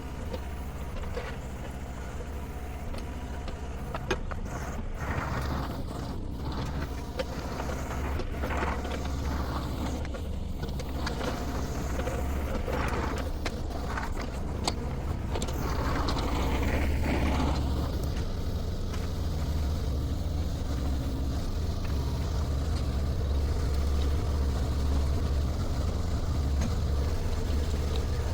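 Shantui STE35SR mini excavator's engine running steadily at work, with scattered knocks and cracks. It grows a little louder about halfway through.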